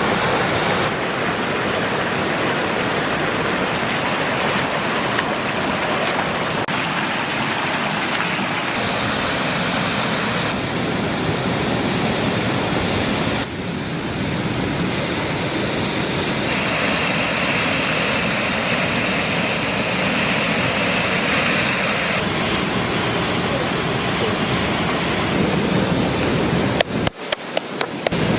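A steady rushing noise of outdoor ambience, such as running water or wind, whose tone shifts abruptly several times. A quick run of sharp clicks comes near the end.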